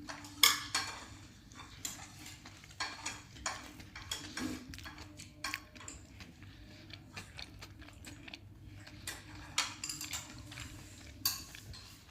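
Metal kitchen utensils clinking and scraping against cookware in irregular strokes, the loudest about half a second in.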